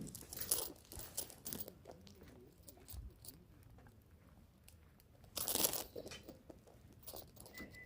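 Wood campfire crackling and popping in scattered sharp snaps, with a louder rustling crackle about five and a half seconds in.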